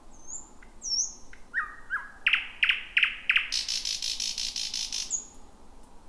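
Thrush nightingale singing one song phrase. It opens with thin high whistles and a few lower notes, then gives four loud strokes followed by a fast rattle lasting about a second and a half, and ends on another high whistle.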